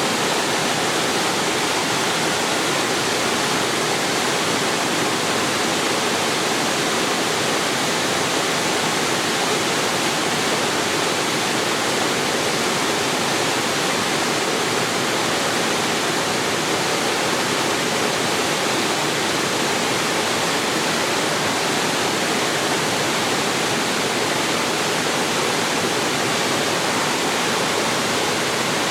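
Waterfall pouring into a mountain stream pool: a steady, even rush of falling water.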